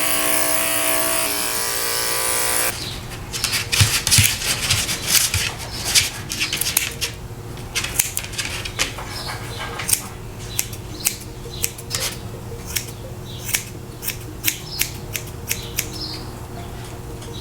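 Grooming scissors snipping through a small dog's fur, a quick, irregular string of sharp snips. It opens with about three seconds of a loud steady electric buzz that cuts off.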